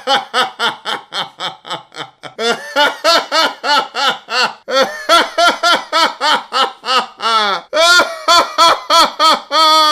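A person laughing hard in rapid, rhythmic pulses, about three to four a second, turning into longer, higher-pitched squeals near the end.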